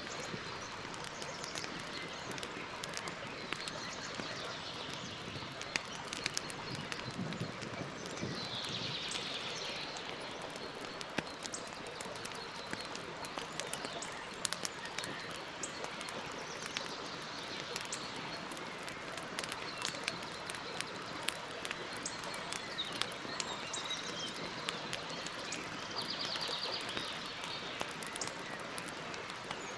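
Wood campfire burning with a steady hiss and frequent sharp crackles and pops. A bird calls briefly twice in the background, about a third of the way in and again near the end.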